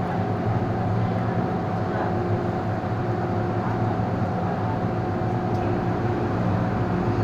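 Steady hum and whine of an MTR M-Train's onboard equipment while the train stands at the platform with its doors open.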